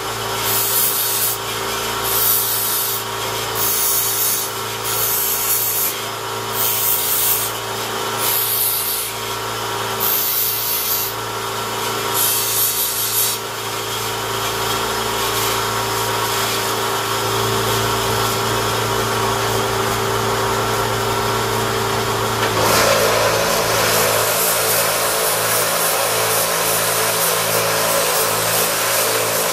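Electric knife-sharpening machine running with a steady hum, a blade pressed to it in repeated hissing strokes about once a second at first, then a steadier, louder grind in the second half.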